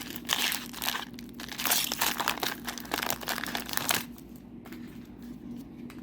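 Crinkling of a trading-card booster pack wrapper being handled and torn open, dense for about four seconds and then quieter.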